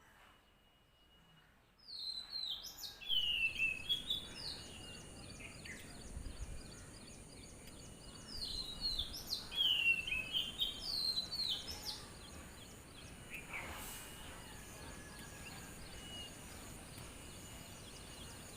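Small birds chirping outdoors: quick runs of short, downward-sliding chirps that start about two seconds in and thin out after about twelve seconds, over a steady high thin whine and a soft background hiss.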